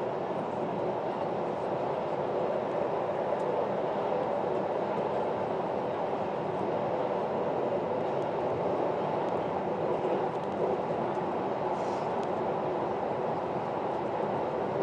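Electric passenger train running at speed through a rail tunnel, a steady rumble of wheels on the track heard from the driver's cab.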